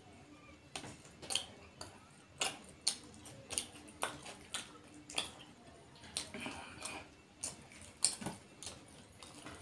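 Close-up eating sounds: a man chewing a mouthful of fish curry and rice, with sharp wet lip smacks and mouth clicks about once or twice a second.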